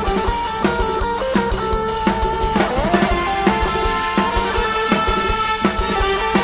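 Lam sing band music played live: a drum kit keeps a steady driving beat with bass drum under a plucked-string melody, and the lead line bends in pitch about three seconds in.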